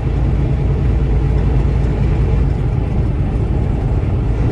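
Steady low rumble of a running truck, heard from inside the cab.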